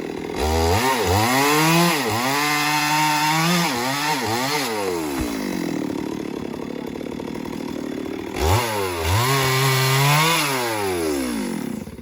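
Stihl MS 382 two-stroke chainsaw revving up from idle and held at high speed for a few seconds, dropping back to idle, then revving again before it cuts off suddenly at the end.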